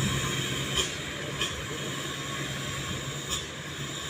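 Steady hiss of rain, with a low steady hum underneath and three short ticks.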